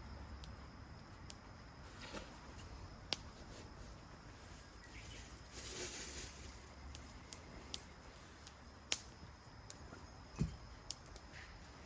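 Wood campfire crackling: scattered sharp pops at uneven intervals, with a brief hiss about halfway through, over a faint outdoor background.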